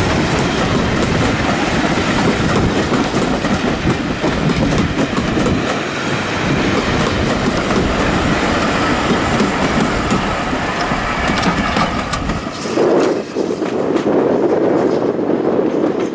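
A train running past on the heritage line, its wheels and carriages rumbling and clattering on the track. The deep rumble drops away suddenly about twelve seconds in as it moves off.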